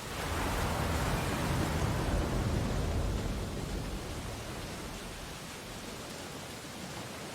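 Ocean waves breaking on a beach: one wave comes in with a rising rush of surf that peaks about two seconds in and then fades slowly as the water washes back.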